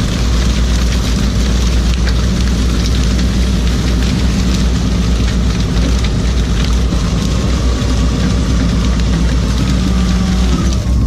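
A fishing boat's engine running steadily with a low hum, under a loud hiss of water and scattered sharp knocks and clicks.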